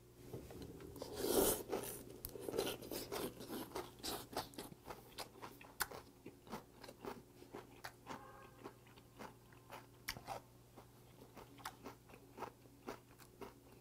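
Close-up chewing of a mouthful of cold damselfish doenjang mulhoe: crisp shredded vegetables and bone-in raw damselfish slices crunching between the teeth. The loudest part comes as the bite is taken, about a second in, followed by many short quick crunches.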